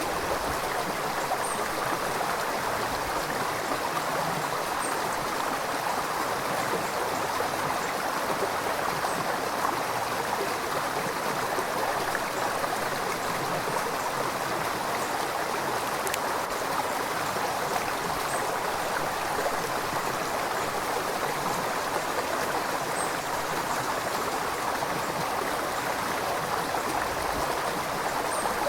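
A river flowing, a steady, continuous rush of running water.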